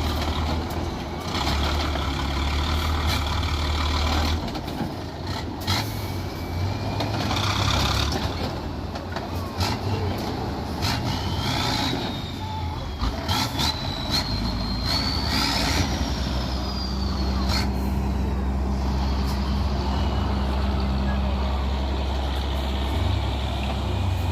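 Tatra truck-trial truck's engine running, with repeated sharp knocks and crunches in the first half. In the middle, a whistling tone glides up and then down.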